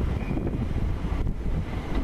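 Class 455 electric multiple unit running past, a steady rumble of wheels on the rails, with wind buffeting the microphone.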